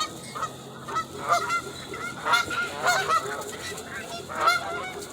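A flock of birds calling, many short, overlapping pitched calls following one another through the whole stretch.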